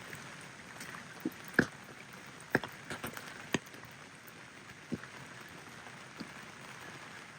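Steady light rain hiss, with large single drops ticking sharply at irregular intervals, about seven of them, the loudest near the start.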